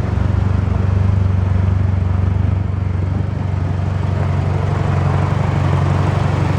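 2008 Mitsubishi Lancer Evolution GSR's turbocharged 2-liter four-cylinder engine idling steadily.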